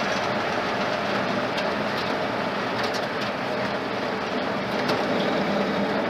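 Brand-new Ford flathead engine running steadily as the truck drives along, with road and cab noise and a few light rattles or clicks.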